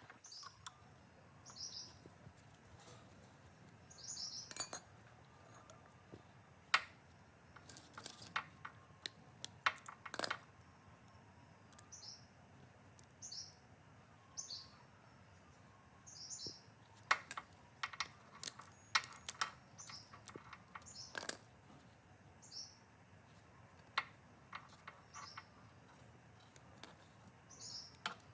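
Scattered sharp clicks and taps of hand work in a workshop, irregular and some louder than others. A bird chirps in short repeated notes every second or so behind them.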